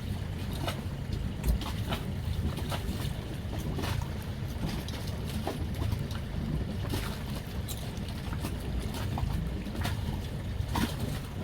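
Wind rumbling on the microphone aboard a boat, a steady low noise with scattered small clicks and knocks.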